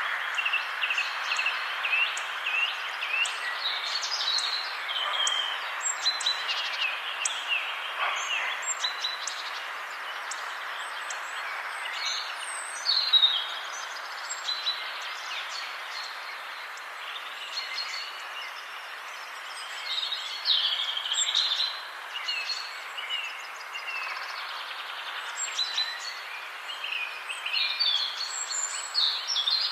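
Several wild birds chirping and singing in a forest, many short quick calls overlapping throughout, over a steady background hiss.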